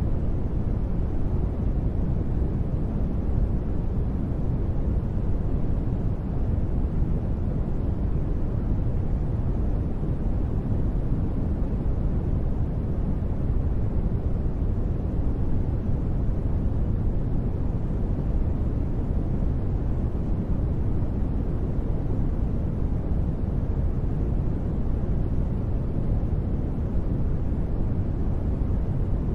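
Continuous sleep noise sold as white noise, steady and unchanging, with its weight in the deep low end so it sounds more like a dark rumbling hiss than a bright one.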